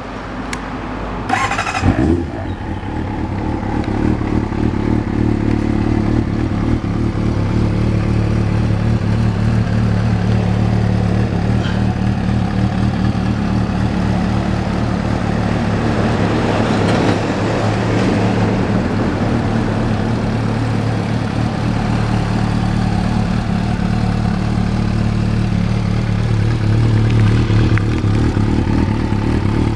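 Kawasaki ZRX400-II inline-four engine with a full titanium aftermarket exhaust, starting up about two seconds in and then idling steadily.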